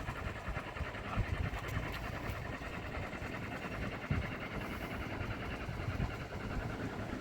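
Diesel engine running steadily at low revs, with a fast, even pulse.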